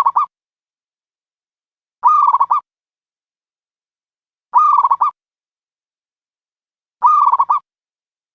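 Dove call played as a trapping lure: a short coo of several quick broken notes, repeated the same way about every two and a half seconds with silence between.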